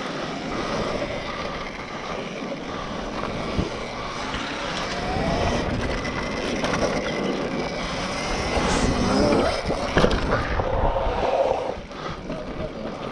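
Electric dirt bike motor whining up and down in pitch as it speeds up and slows, with wind and tyre noise, and a sharp knock about ten seconds in.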